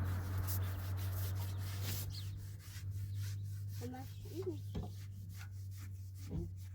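Rubbing, scrubbing sound for about two seconds, then it stops, over a steady low hum; a few brief faint high calls follow near the middle.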